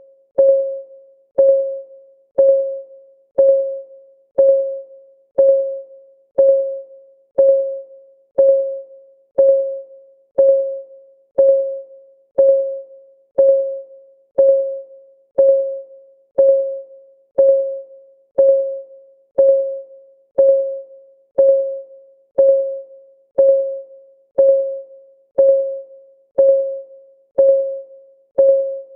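Countdown timer's ticking sound effect, one tick each second, each a short, pitched tick that rings briefly and fades before the next.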